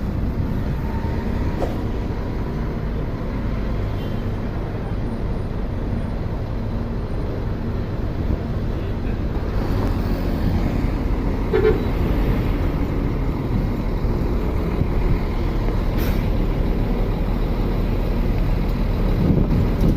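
Bus engine running with a steady low rumble, growing a little louder about halfway through.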